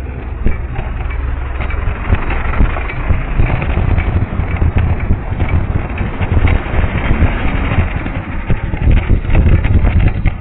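Vehicle running on a punctured tyre, giving off the abnormal noise of a flat: a stream of repeated knocks and slaps over a steady low road rumble.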